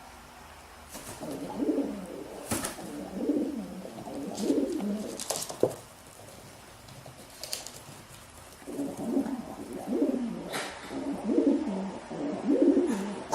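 A bird cooing: a string of low throaty coos about a second apart, in two runs with a pause of a few seconds between them, and a few sharp clicks among them.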